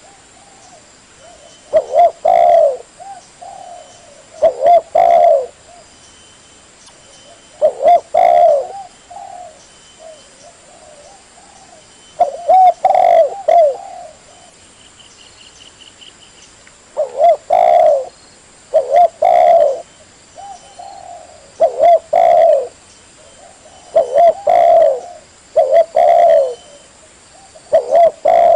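Spotted dove (tekukur) cooing: loud phrases of a few rounded coos each, repeated every two to four seconds.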